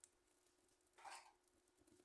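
Wood fire crackling faintly, with a few light ticks and one louder snap about a second in.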